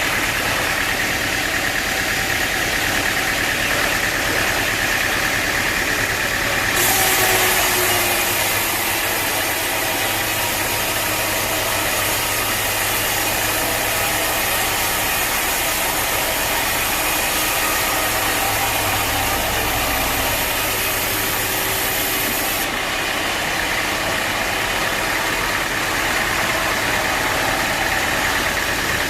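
Sawmill machinery running steadily. From about seven seconds in, a harsher hiss rises over it for some sixteen seconds, then drops away: the saw blade cutting through a teak log.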